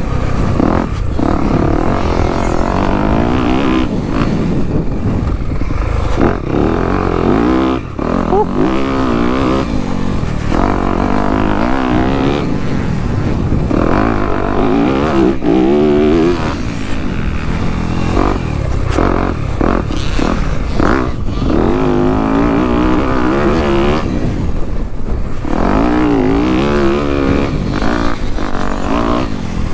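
Dirt bike engine being ridden hard, its pitch rising and falling over and over as the throttle is opened and shut, with a short drop in level about eight seconds in.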